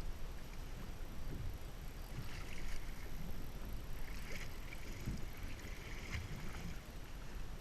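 Wind buffeting the microphone and water sloshing around a small fishing boat, a gusty low rumble with a brief hiss now and then.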